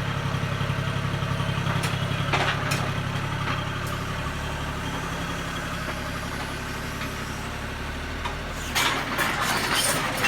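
Excavator diesel engine running steadily with a fast low pulse, a few light clicks in the first few seconds. About nine seconds in, a louder rattling, crackling noise sets in over the engine.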